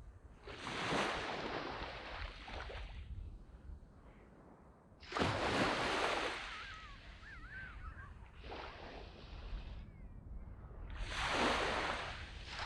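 Small waves breaking and washing up a sand beach, four surges a few seconds apart, each swelling and then fading as it draws back.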